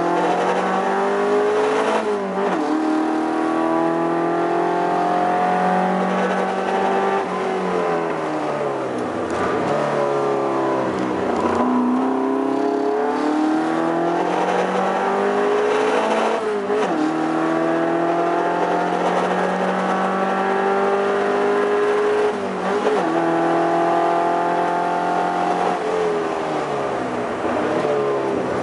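Toyota 18R-G twin-cam four-cylinder engine of a TA22 Celica race car being driven hard through the gears. Its pitch climbs under acceleration and drops sharply at each gearshift, about every five seconds. It falls away more slowly twice when the car slows.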